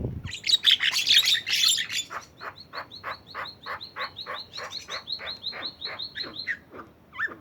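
Javan myna calling: a burst of harsh, scratchy chatter, then a rapid run of short repeated notes, about five a second, lasting some four seconds before it stops.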